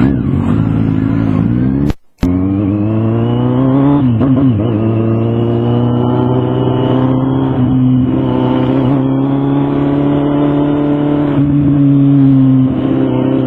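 Motorcycle engine running under way. The sound cuts out briefly about two seconds in, then the engine note rises as the bike accelerates and settles into a steady cruising note with small changes in pitch.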